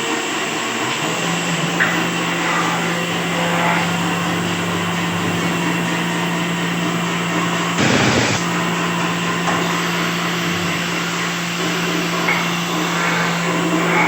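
Woodworking power tool running steadily with a constant motor hum, with a brief louder burst of noise about eight seconds in.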